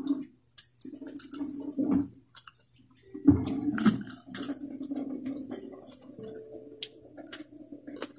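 Close-up wet chewing and lip-smacking while eating with the fingers, made up of many small sharp mouth clicks and squelches over a faint steady low hum.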